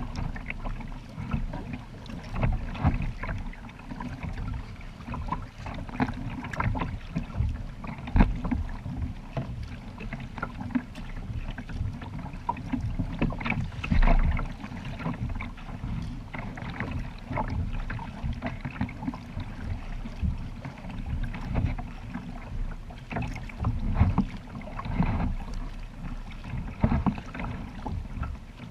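Kayak on open water: irregular paddle splashes and water slapping against the hull, over a steady low rumble.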